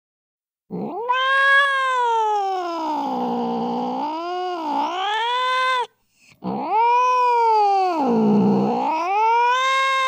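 Angry domestic cat yowling: two long drawn-out caterwauls. Each swoops up, sags lower with a wavering wobble, then climbs again before cutting off. The second starts about six and a half seconds in.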